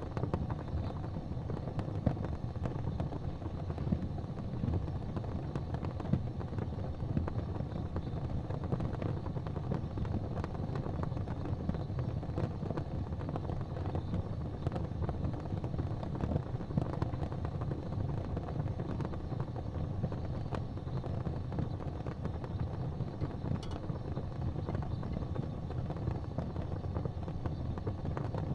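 Wood fire burning in an open fireplace: a steady low rumble of flames, dense with small crackles and an occasional louder pop.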